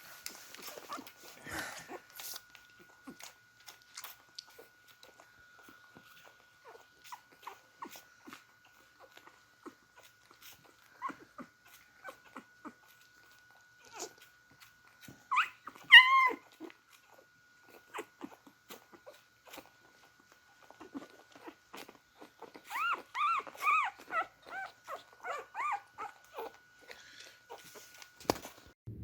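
Beagle puppies drinking milk, with many small wet clicks and slurps. About halfway through one puppy gives a loud whimpering cry, and near the end comes a quick run of short high whines and squeaks.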